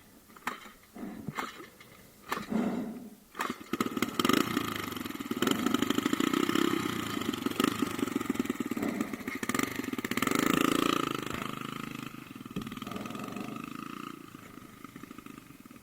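Off-road motorcycle engine coming in after a few knocks, about three and a half seconds in, then revving in two swells and fading toward the end.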